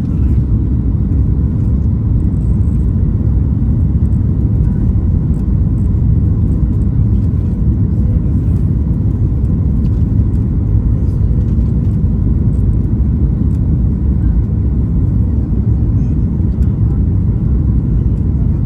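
Steady low rumble of a Boeing 737 MAX 8 heard from inside the passenger cabin: engine and airflow noise at an even level.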